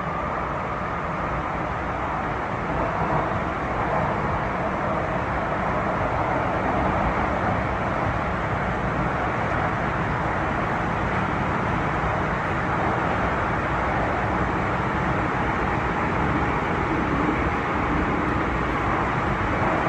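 MTR M-Train electric multiple unit running between stations, heard from inside the car: a steady rumble of wheels on rail and running gear, growing slightly louder after a few seconds.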